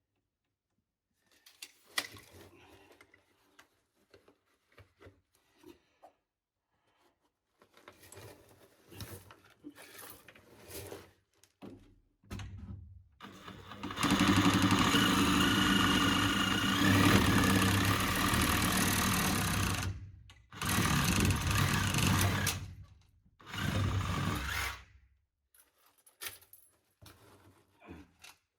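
Power saw cutting plastic drain pipe: one long run of about six seconds, then two shorter bursts. Before it, scattered knocks and clatter of pipe and tools being handled.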